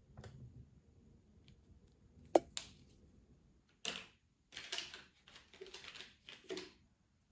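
Colouring on paper: a single sharp click about two seconds in, then a run of short scratchy strokes of a colouring tool across the paper.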